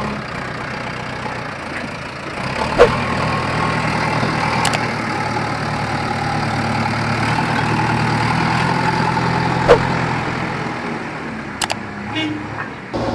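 Heavy diesel machinery engine running steadily, swelling a little in the middle and easing off near the end. Two sharp knocks, one about three seconds in and one near ten seconds, stand out over it, with a few lighter clicks near the end.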